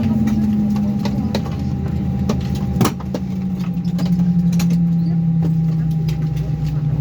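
Airbus A319 cabin noise after landing: a low machinery hum slowly falling in pitch, with a faint steady higher tone, scattered small clicks and one sharp knock about three seconds in.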